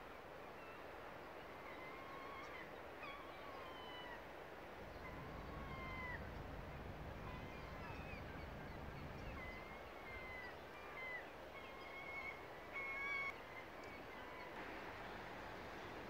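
Birds calling: a scattered series of short, sliding chirps, some rising and some falling in pitch, over a faint steady hiss. A low rumble comes in for a few seconds from about five seconds in.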